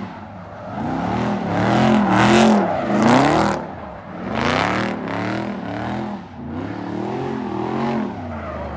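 Car engines revving, pitch swooping up and down over and over, with several louder surges of acceleration.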